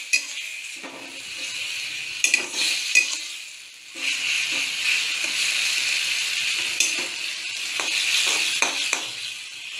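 Grated pineapple sizzling in hot ghee in a metal kadai, stirred with a metal spatula that scrapes and clicks against the pan now and then. The pineapple is being cooked down until its juice reduces. The sizzle dips briefly a little before halfway and comes back stronger about four seconds in.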